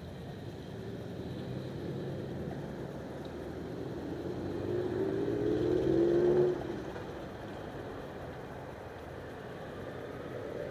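A motorcycle passing by under acceleration: its engine note rises in pitch and grows louder to a peak a little past the middle, then falls away abruptly as it goes by, over a steady background of traffic.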